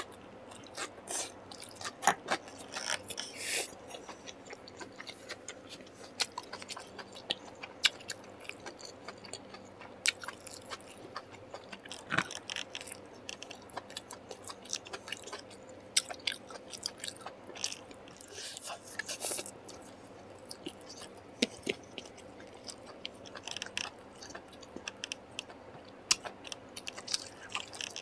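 Close-miked chewing and biting of food: irregular wet mouth clicks and smacks with occasional crunches.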